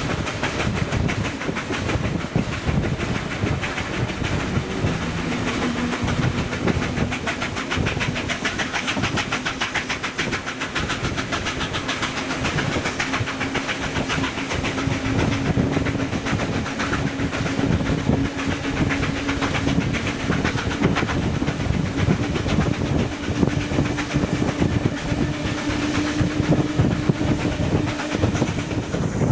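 A train running on the rails, with dense rolling noise and a rapid, even rhythm. A steady hum comes in about five seconds in and rises slightly in pitch before fading near the end.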